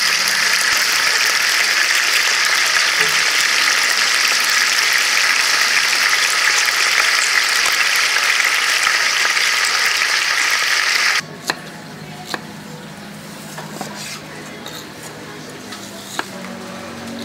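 Whole chickens frying in hot oil in a large pot: a loud, steady sizzle that cuts off suddenly about eleven seconds in. After that, a few sharp knocks of a knife on a wooden cutting board while pineapple is sliced, over a low hum.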